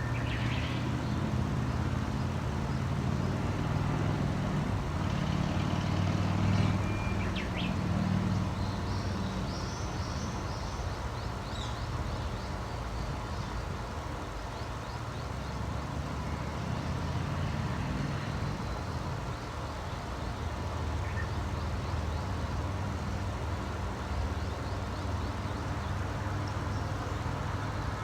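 A few short, faint bird chirps, including one quick series, over a steady low rumble like distant traffic.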